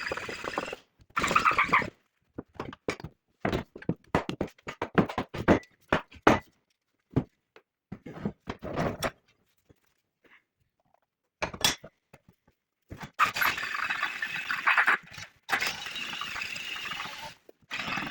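Metalworking sounds: a run of irregular short knocks and clicks, a single sharp knock, then two longer stretches of steady scraping noise.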